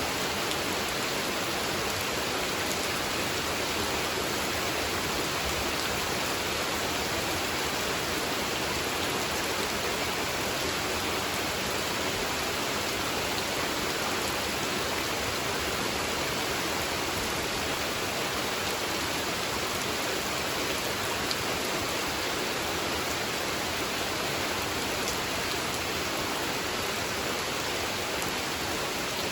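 Steady rain falling on a pond's surface, an even hiss without let-up.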